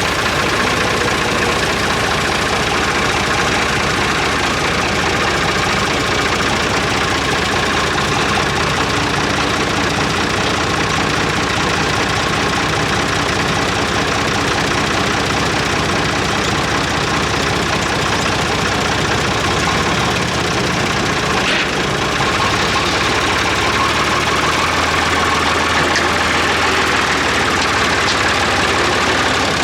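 A vehicle engine idling steadily close by, with one sharp click about two-thirds of the way through.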